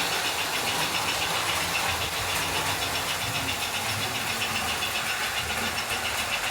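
American Flyer 322 Hudson S-gauge model steam locomotive running on track, its electric motor and wheels giving a steady mechanical whir with a fast, even pulsing.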